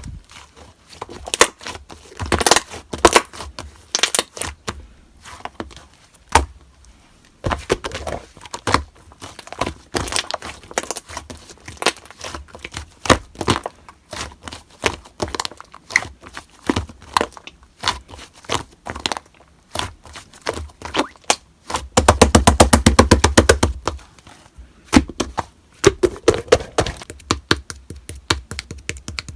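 Hands squeezing, poking and stretching slime, making irregular sticky clicks, pops and crackles. A little past the middle comes a fast run of clicks lasting about two seconds.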